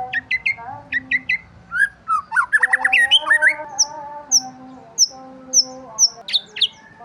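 Several birds chirping: quick falling chirps at the start, a dense burst of trills and calls in the middle, then a short high chirp repeated about twice a second.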